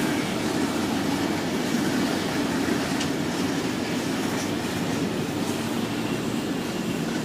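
Freight train wagons rolling past at low speed: a steady rumble of steel wheels on rail with a few faint ticks.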